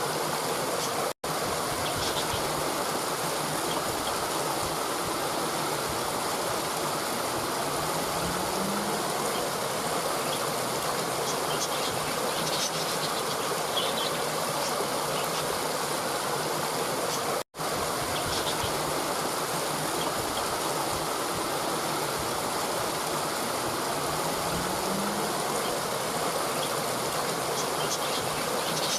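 Steady rushing stream water, with faint high chirps of birds or insects over it. The sound cuts out for an instant twice, about a second in and about halfway through.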